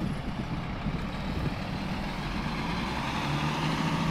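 Road traffic: motor vehicles running and passing, with a steady engine hum coming in near the end.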